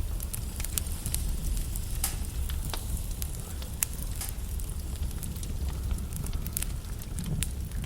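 Wood fire burning in a fireplace: irregular sharp crackles and pops of the logs over a steady low rumble and hiss.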